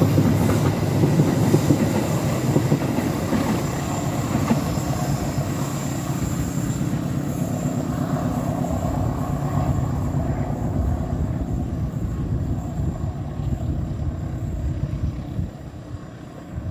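Passenger train running past at speed, its wheels clattering over the rail joints in a dense rumble. The noise drops sharply near the end.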